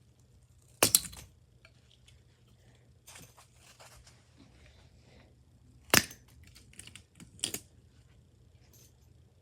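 Small hard plastic toys being handled: sharp clacks about a second in, about six seconds in, and a quick double clack a little later, with faint rustling between.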